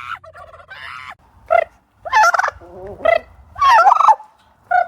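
Turkeys gobbling: about five short, loud gobbles in quick succession, with brief pauses between them.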